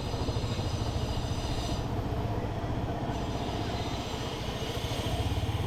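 Motorcycle engine running steadily while riding, with a fast low pulsing and a steady rush of wind and road noise.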